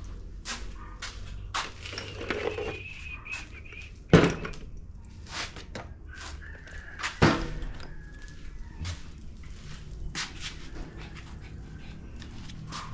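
A dog panting and whining, with scattered clicks and knocks and two louder thuds about four and seven seconds in.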